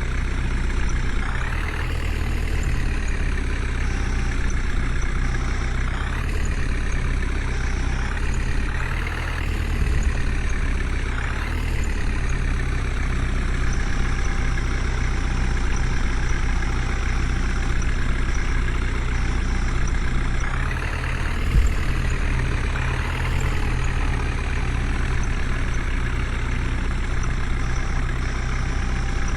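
Heavy diesel machine engine running steadily with a strong low hum, its pitch rising and falling briefly several times as it is revved under working load.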